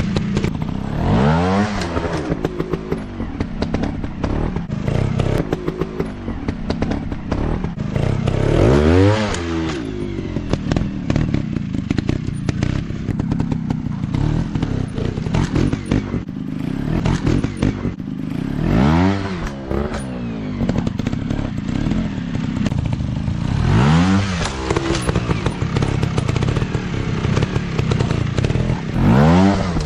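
Off-road trail motorcycle engines revving, the pitch rising and falling about five times over a steady engine rumble, with scattered clattering knocks.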